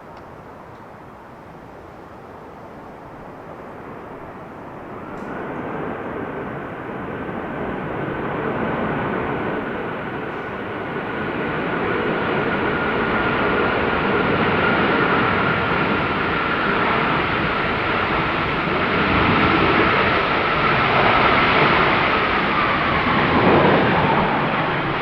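Boeing 747-400F freighter's four jet engines growing steadily louder as it comes in, with a high fan whine over the rushing noise. Near the end the whine drops sharply in pitch as the aircraft passes close by, and the sound begins to fade.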